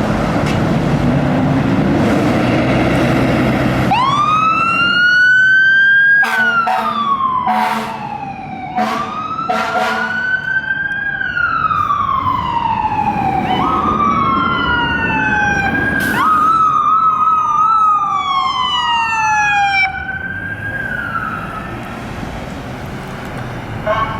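Low engine rumble of an approaching fire engine, then emergency sirens wailing, rising and falling slowly, with several short horn blasts a few seconds after the sirens start and a brief quick warble later on. The sirens fade somewhat near the end.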